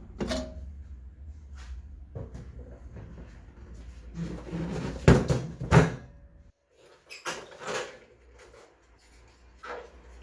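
Knocks and clunks of hard objects being handled and set down, with two loud knocks about five and six seconds in, then quieter scattered clicks.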